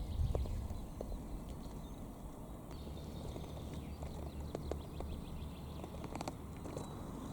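Kayak paddling on a lake: water lapping and splashing, with scattered light knocks and clicks over a low steady rumble.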